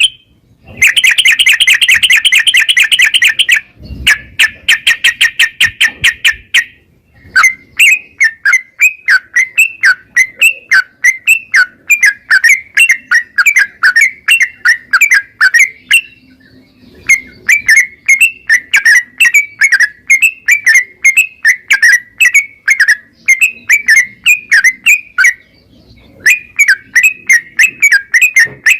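Sooty-headed bulbul (trucukan) singing loudly. Its song starts as dense, rapid trilled runs and goes on as long series of quick, sharp chirps, several a second, with brief pauses.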